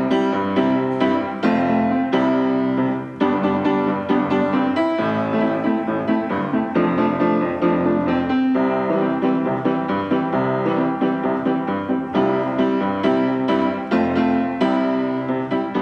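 Background music played on piano: a steady run of notes with a regular rhythm.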